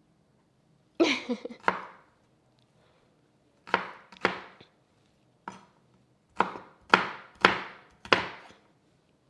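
Kitchen knife chopping food on a cutting board: about nine separate sharp chops at an uneven pace, with pauses between them.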